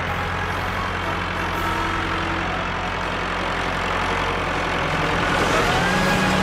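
Vehicle engine running steadily with a deep, even hum. A rising whine comes in near the end.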